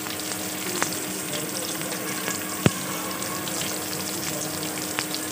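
Chopped onion and green chillies sizzling steadily in hot oil with cumin, mustard seeds and curry leaves in a kadhai, just after the onion goes in. A few sharp clicks cut through the sizzle, the loudest about two and a half seconds in.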